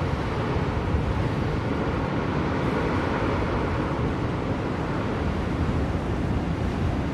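Blizzard wind blowing steadily, a low rushing noise that swells slightly a few seconds in.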